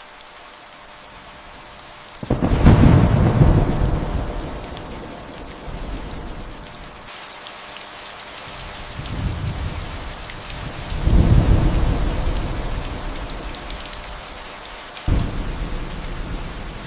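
Steady rain falling, with several rolls of thunder rumbling over it: a big one about two seconds in that fades over a few seconds, smaller ones after, another big roll about eleven seconds in, and one with a sudden start near the end.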